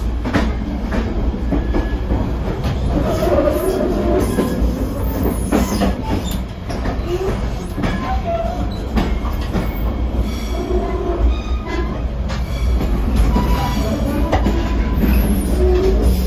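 Shoreliner II commuter rail coach under way: a steady low rumble of wheels on rail, with frequent clicks over rail joints and brief wheel squeals now and then.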